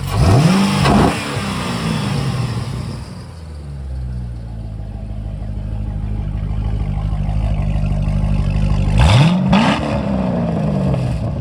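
2008 C6 Corvette's 6.2-litre LS3 V8 running, revved sharply twice: once right at the start and again about nine seconds in, each time dropping back to idle.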